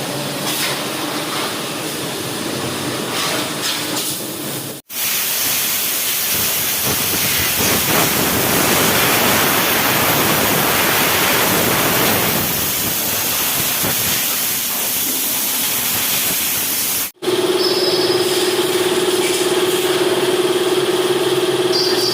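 Steady high-pressure water spray hissing for about twelve seconds, as from a car-wash pressure washer, starting and stopping at abrupt cuts. After the second cut, a steady machine hum with one strong held tone.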